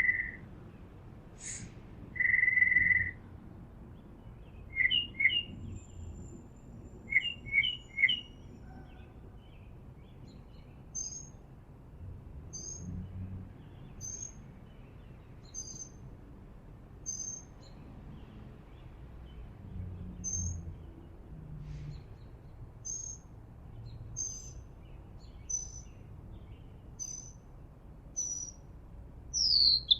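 Wild birds calling in a meadow: two clear, steady whistled notes near the start, a few quick chirp clusters, then short high chirps repeated about once a second.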